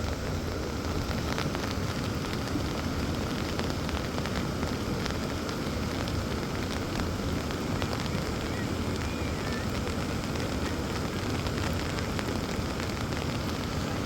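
Heavy rain falling steadily, a constant hiss with scattered small drop ticks.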